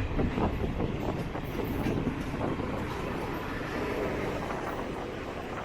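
Passenger train running along the track, heard from aboard a non-AC double-decker coach: a steady low rumble of wheels on rails that eases off slightly near the end.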